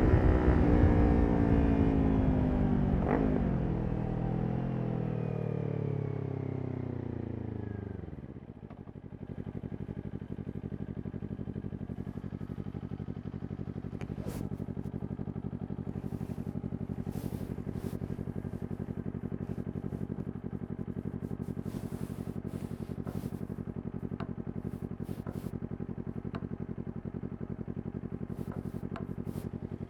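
Kawasaki Ninja 400's parallel-twin engine through a Yoshimura exhaust, dropping in pitch as the bike slows, with a brief blip of revs about three seconds in. It settles to a steady idle at about eight seconds, with scattered faint clicks over it.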